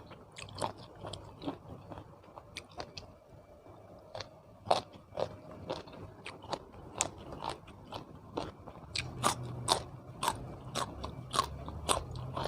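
A person biting and chewing crunchy food, a scatter of short sharp crunches that comes thicker and faster in the last few seconds.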